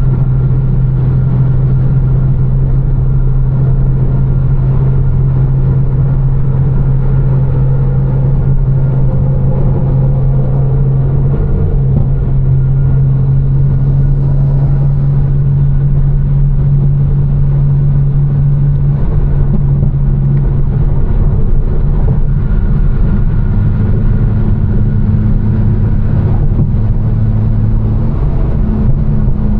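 Tuned BMW M4 with a straight-piped Fi exhaust and catless downpipes, droning steadily at a light cruise over an even hiss of tyre and road noise. About two-thirds of the way in, the drone settles to a lower pitch.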